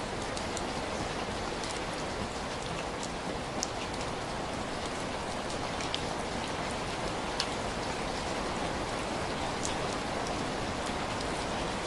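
Steady rain falling, an even hiss with scattered sharp drops ticking through it.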